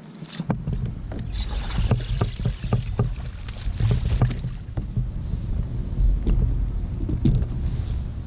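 Knocks, clicks and handling noise aboard a fishing kayak, busiest in the first five seconds, over a low rumble of wind on the microphone.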